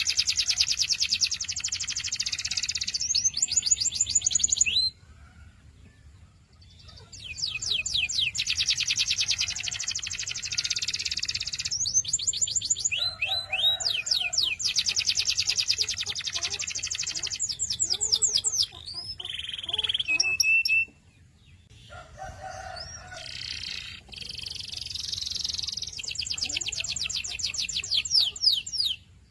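Domestic canary singing long rolls of very rapid repeated high notes, with a few sweeping notes between phrases. The song breaks off briefly twice, about five seconds in and again around twenty seconds in.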